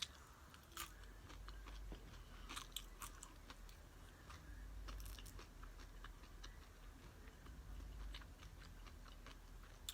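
A person chewing and biting into crunchy nachos, with faint scattered crunches and mouth clicks.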